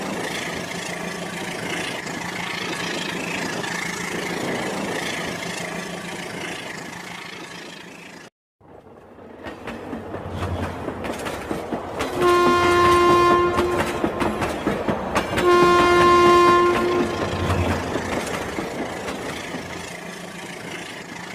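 Rail King battery toy train running on its track, motor and wheels clattering steadily. After a short break about eight seconds in, the running resumes and the train's built-in electronic horn sounds twice, each blast about a second and a half long, before the running noise fades.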